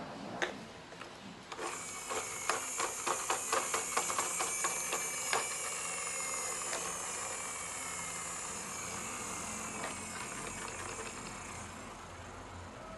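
A small motorised machine running with a high hiss, its tones slowly falling in pitch; rapid clicks for the first few seconds after it starts.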